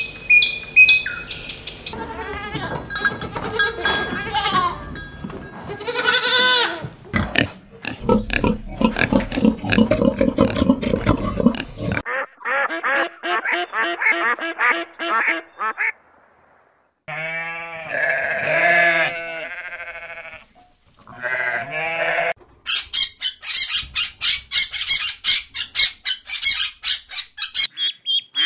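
A run of different animal calls: high bird chirps at the start, lower calls through the first half, then ducks quacking in repeated series around the middle. From about two-thirds of the way through, ducklings peep high and fast, about three peeps a second.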